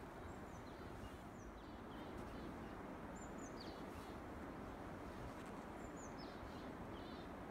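Small birds chirping: short, high, downward-sliding notes repeated about once a second, faint over a steady low background noise.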